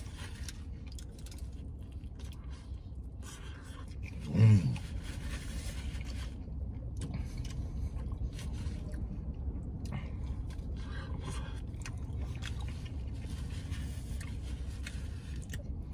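A man chewing mouthfuls of burrito, with small mouth clicks and the paper wrapper scraping and crinkling, and a short hummed "mm" about four and a half seconds in.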